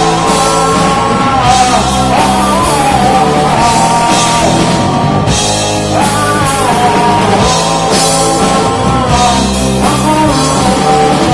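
Live rock band playing loud amplified rock music, with a lead vocal line over the band.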